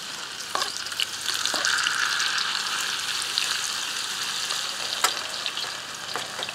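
Diced potatoes sizzling in hot cooking oil in a stainless steel fry pan as more are scraped in off a cutting board, the sizzle swelling about a second in. A spatula stirs them, with a few sharp clicks and scrapes against the pan.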